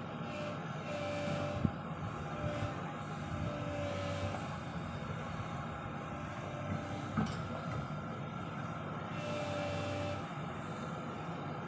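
Excavator's diesel engine running steadily under load while it pulls steel sheet piles, with a few short whines and two sharp metallic knocks.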